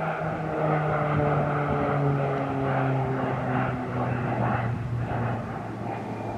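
PZL-130 Orlik turboprop trainer passing by in flight, its propeller drone dropping steadily in pitch as it goes past, loudest about a second or two in and fading toward the end.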